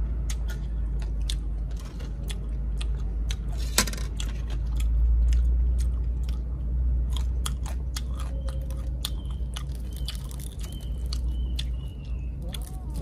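Chewing of crispy deep-fried crocodile head, with many scattered sharp crunches and crackles as the crisp fried skin is bitten and chewed; the loudest crunch comes about four seconds in. A steady low rumble runs underneath.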